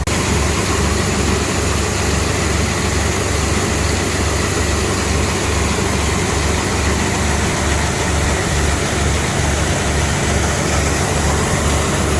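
Diesel engine running steadily with a regular low throb over an even hiss, as wheat is loaded from a tractor-driven auger into a grain trailer's hopper.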